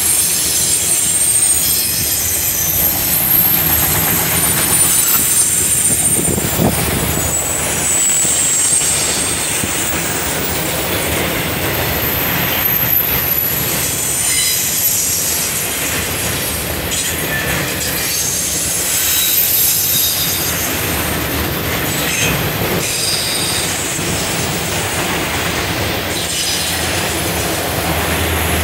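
Freight train of autorack cars passing close by, a steady rumble with its steel wheels squealing high-pitched on the rails throughout: metal wheels on metal track.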